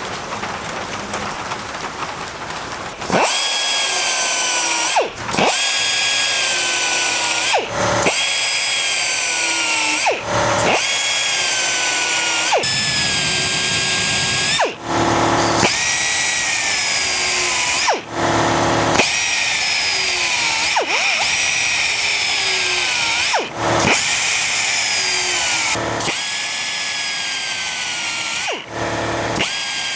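Electric power tool with a high-pitched motor whine, starting about three seconds in after a quieter hiss. It runs in a series of passes a couple of seconds each, and its pitch sags during each pass as the tool bears on the work.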